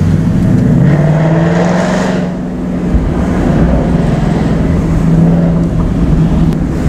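Ford Mustang GT's V8 with an aftermarket exhaust, heard from inside the cabin. Its note rises as the car accelerates about a second in, eases briefly, then holds steady while cruising.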